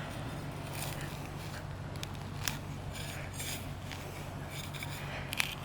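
Digging into dry, hard ground: scattered scraping and crackling of soil, with two sharp clicks, about halfway and near the end, over a steady low hum.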